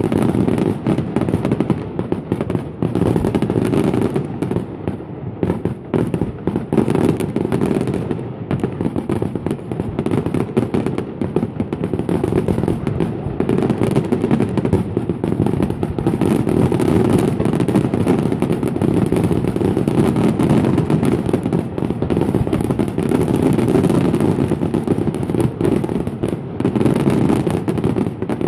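Fireworks display: a dense, continuous run of shell bursts and crackling, loud and without a break.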